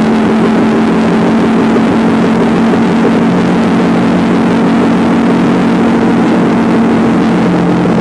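Motorcycle engine running at a steady cruising speed, with a strong rush of wind and road noise heard on board while riding.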